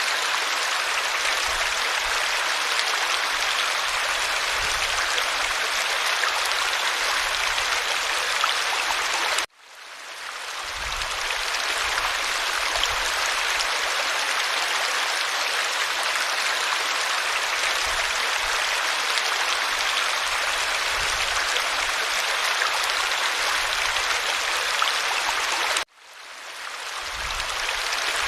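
Creek water running over stones, a steady rushing babble. It cuts out suddenly twice, about a third of the way in and near the end, and fades back in over a second or two each time.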